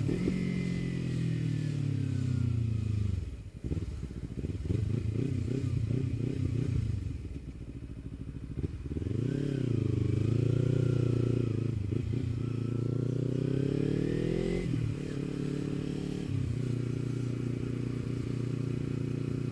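Kawasaki Ninja 300's parallel-twin engine running through an Akrapovič slip-on exhaust while riding. The revs fall over the first few seconds and settle low for a moment around the middle. They then rise and fall again and drop sharply near fifteen seconds, then hold steady.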